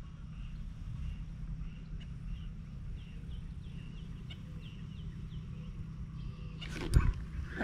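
A bird calling over and over, short notes two or three times a second that slide downward and fade out a few seconds in, over a steady low rumble. A sharp knock comes near the end.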